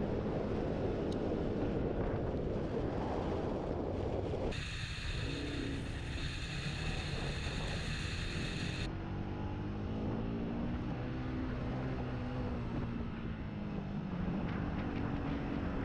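Motorcycle engine running under way, its revs rising and falling, with wind buffeting the microphone. About four seconds in, a high whine joins for roughly four seconds.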